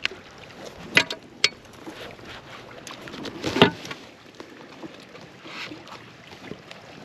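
Handling noises aboard a fishing kayak: a few sharp clicks and knocks, with a louder clunk about three and a half seconds in, over faint outdoor background.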